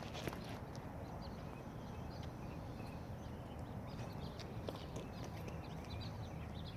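Outdoor ambience: a steady low rumble with scattered faint, irregular ticks and chirps.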